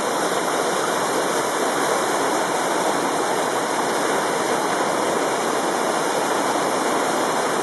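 A waterfall in spring flow, really coming down: a loud, steady rush of falling water.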